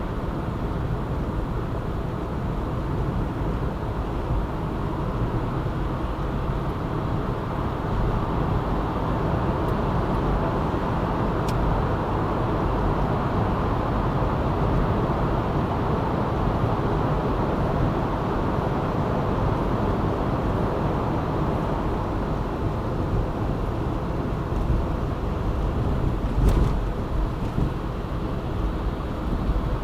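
A car driving at a steady speed: even road and engine noise, with a brief knock near the end.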